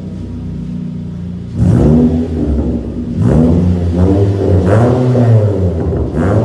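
Toyota RAV4 with an aftermarket exhaust idling, then revved hard about one and a half seconds in. Several more throttle blips follow, the exhaust note rising and falling in pitch with each.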